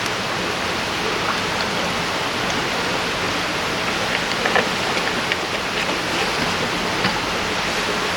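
River water running steadily over its stony bed, an even rushing wash, with a few light ticks about halfway through.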